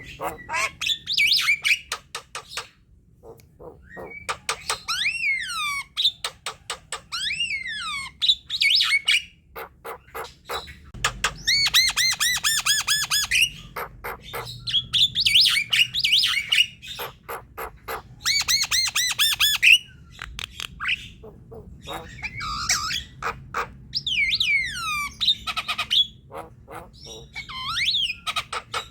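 Javan myna song: a long, varied chatter of rapid clicking runs, downward-sliding whistles and harsh, repeated squawking notes, broken by short pauses.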